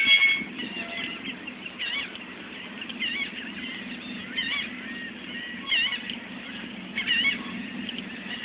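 Birds calling: a series of short rising-and-falling calls, roughly one every second or so, over a steady low hum.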